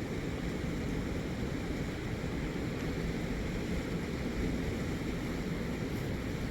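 A river's water rushing: a steady, unbroken rushing noise, heaviest in the low range.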